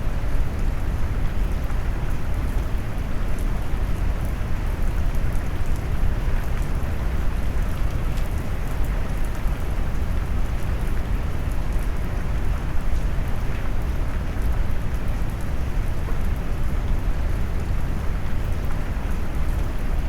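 Steady rain mixed with deep brown noise: a constant low rumbling hiss with faint scattered drop ticks on top.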